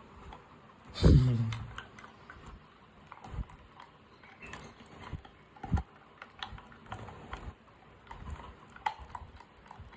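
A dog eating mutton, its teeth and the meat making scattered small clicks, wet smacks and crunches. About a second in there is one short, loud vocal sound that falls in pitch.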